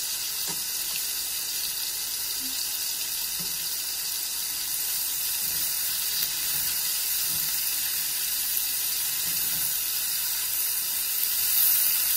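Onions, mushrooms and red peppers sizzling steadily as they fry in fat in a large non-stick pan, getting a little louder near the end as they are stirred.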